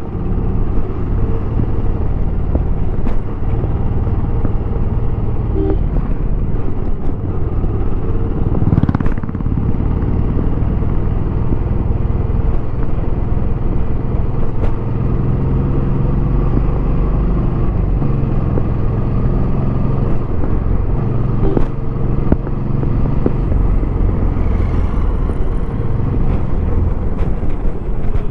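Royal Enfield Bullet 350X's air-cooled single-cylinder engine running through its stock exhaust on the move. The engine note rises and falls as the throttle changes, with a brief rising rush of noise about nine seconds in.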